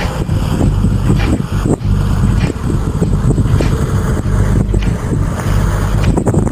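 Off-road vehicle's engine running steadily while driving over rough desert ground, with irregular knocks and rattles from the bumps.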